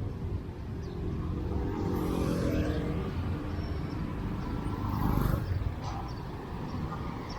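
Busy city road traffic: motorbike and car engines running and passing, a steady rumble with one engine's hum standing out about two to three seconds in.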